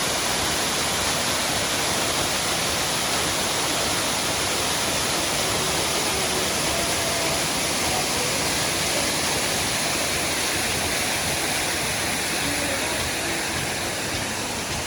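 Waterfall heard close up from its foot: a steady, even rush of falling water.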